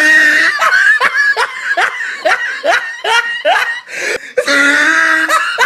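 A person laughing hard: a long run of short rising "ha" pulses, about two or three a second, with a drawn-out held note at the start and again about four and a half seconds in.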